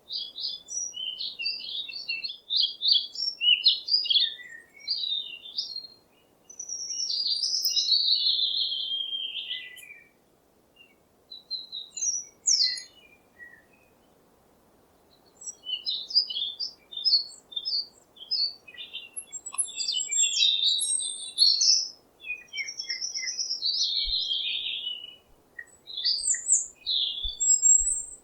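A songbird singing: quick runs of high chirps and trilled phrases lasting a few seconds each, broken by short pauses.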